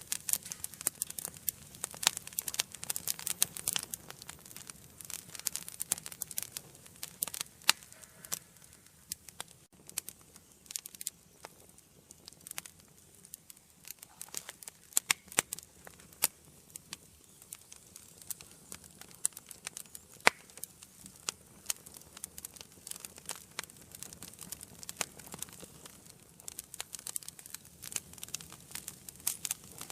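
Wood fire burning in a fireplace, crackling with irregular sharp pops and snaps over a faint hiss. The crackles come thickest at the start and near the end, with one louder pop about two-thirds of the way through.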